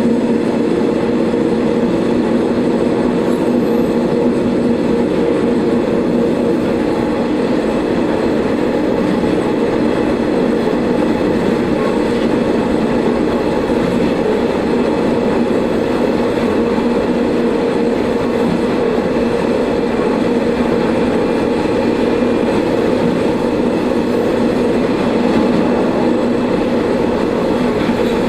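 Diesel railcar running along the line, heard from on board: a steady engine drone with the rumble of wheels on rails.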